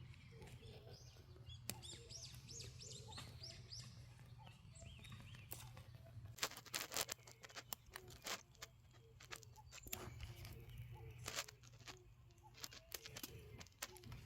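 Wild birds chirping, a quick run of short arched notes in the first few seconds, followed by scattered sharp clicks and rustles through the rest.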